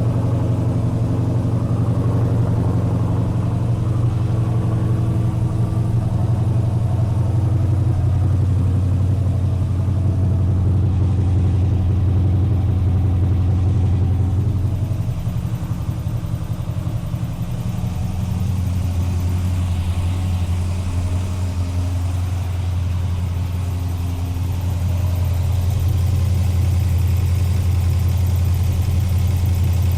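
LS V8 engine, a 7.0 L 427 with individual throttle bodies, idling steadily on its first run after fitting new cylinder heads. The idle dips slightly about halfway through, then steadies again.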